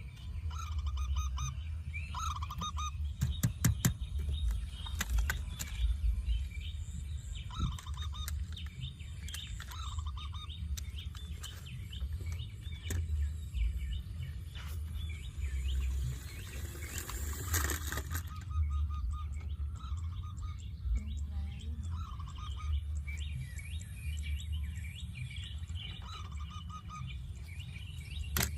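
Short bird calls repeated every second or two, with scattered clicks and knocks over a steady low rumble.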